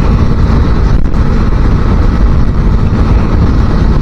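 A 250cc motorcycle cruising at road speed, its engine running steadily under heavy wind rumble on the microphone.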